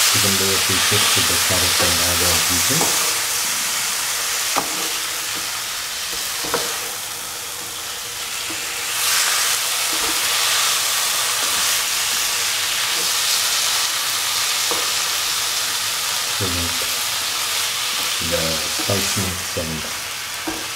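Chicken liver pieces, carrots and spices sizzling in hot oil in a pan while being stirred and turned over, with a couple of sharp knocks of the stirring utensil against the pan a few seconds in.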